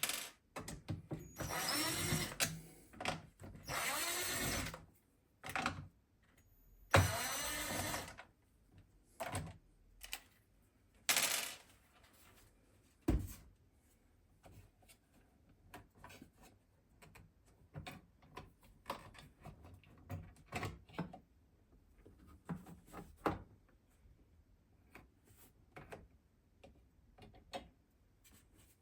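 Handling noises from work on the mower: several rasping, scraping bursts of a second or two, then scattered light clicks and knocks.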